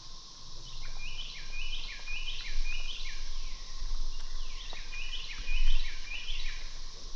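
A songbird singing two runs of quick repeated notes, each note slurring downward, about two or three a second: the first run about a second in, the second about five seconds in. A low rumble swells underneath, loudest near the second run.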